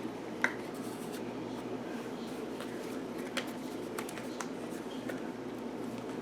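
Handmade cardstock explosion box being handled: a few light clicks and taps of paper about half a second in and again around three to four and a half seconds in, over a steady low room hum.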